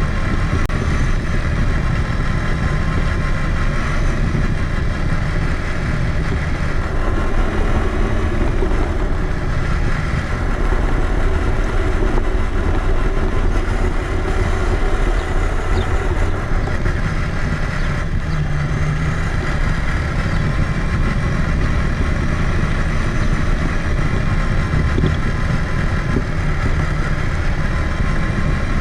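Traxxas Summit electric RC truck driving, heard from a camera mounted on it: a steady whine from the motor and gears over a continuous low rumble and rattle.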